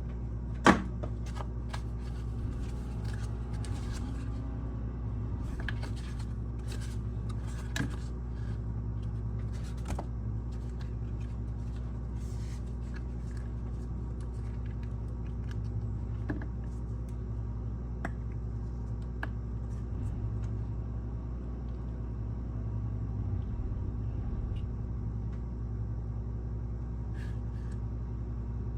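Scattered small clicks and taps of small objects being handled, over a steady low hum.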